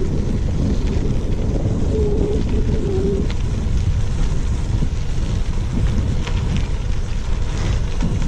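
Wind buffeting the microphone of a moving bicycle, a steady low rumble mixed with tyre noise on the trail and faint scattered clicks. A short wavering tone comes in about two seconds in and lasts just over a second.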